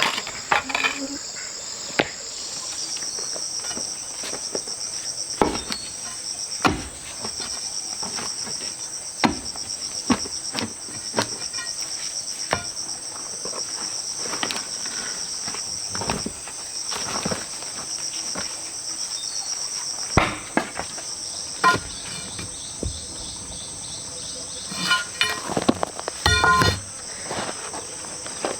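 Steady high-pitched insect chorus, with irregular knocks and thuds scattered through it and a quick run of knocks near the end.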